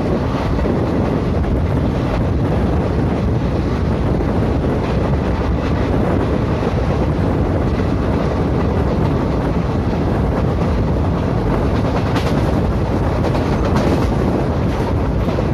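Passenger train running at speed, heard from on board as a steady rumble with wind rushing over the microphone. A few faint clicks come near the end.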